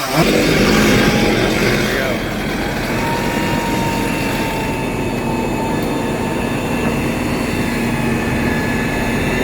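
A chainsaw's last rev right at the start, then the steady drone of heavy diesel tree-service machinery running, with a few held hums over the engine noise.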